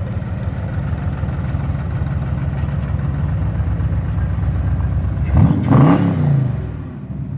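A car engine running with a steady low rumble as the car comes up, then revving sharply once about five and a half seconds in before the sound fades away.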